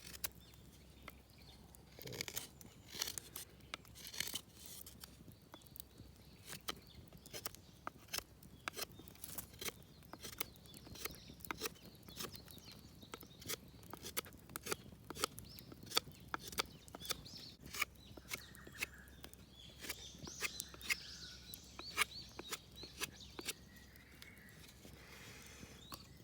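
Knife whittling cherry wood: a run of short, irregular cuts and scrapes as shavings are taken off a hard knot a little at a time.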